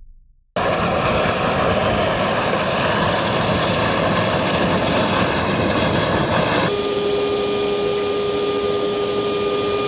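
Airbus A400M's four turboprop engines running loud and steady, with high whining tones over the noise. About seven seconds in, the sound changes abruptly to a duller engine noise with a steady hum.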